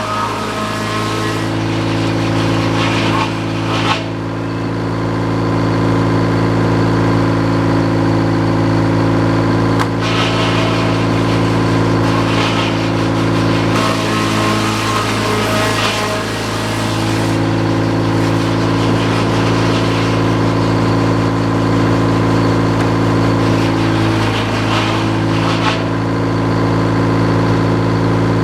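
Engine of a sawmill running steadily at a constant speed, with a few brief surges of higher-pitched noise over it.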